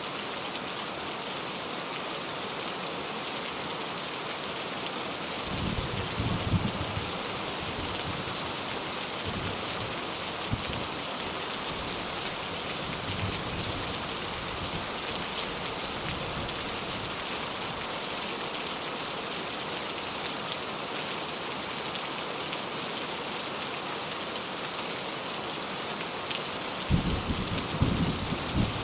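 Steady rain falling on a surface, an even dense patter. A low rumble joins it about six seconds in, and again near the end with a few sharp louder hits.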